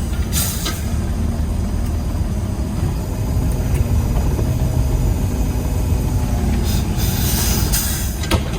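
Diesel engine of a Peterbilt 320 garbage truck running with a steady low rumble, heard from inside the cab, with short bursts of hissing about half a second in and again near the end.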